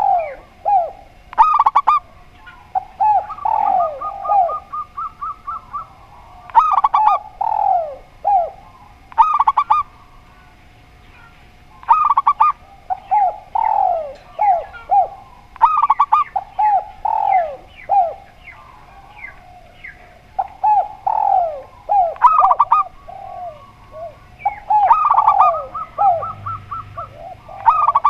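Spotted dove and zebra dove cooing over each other in a long run of short, downward-sliding coos. A few times the run breaks into a rapid stuttering train of notes, and there is a brief lull about ten seconds in.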